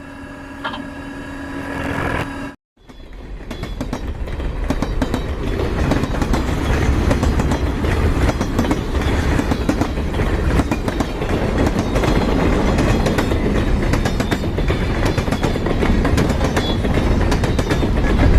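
Train running on rails with a steady clatter of wheels, building in loudness after a brief cut to silence about two and a half seconds in.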